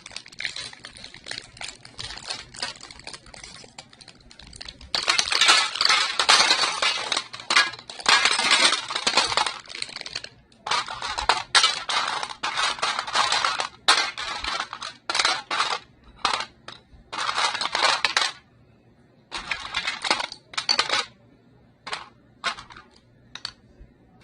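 Small pieces of table scatter poured and sprinkled onto a tray, clicking and clinking in several dense runs of a few seconds each, with scattered single clicks near the end.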